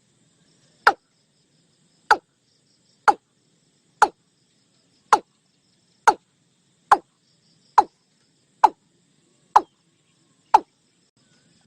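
Watercock calling a steady series of short, hollow notes, about one a second, each note falling quickly in pitch. Faint insect chirring runs underneath.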